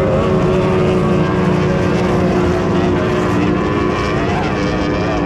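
Racing outboard engines of Formula 1 powerboats running at speed, a steady high drone without a break.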